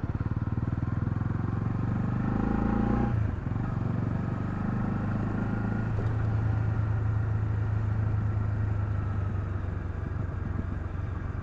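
Honda CL250 motorcycle engine running under way: it climbs in revs, drops sharply about three seconds in as if on a gear change, then holds a steady note.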